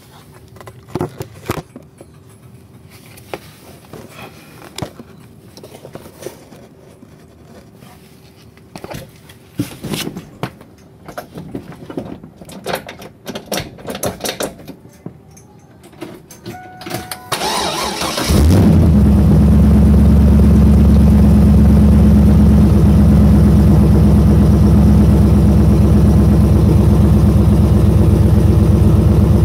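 Scattered clicks and knocks, then about two-thirds of the way in the 1999 Camaro Z28's LS6 V8 is cranked and fires, settling into a loud, steady idle.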